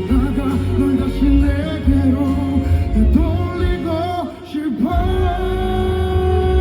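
Live pop ballad: a male voice sings over band backing, dips briefly, then holds one long note near the end.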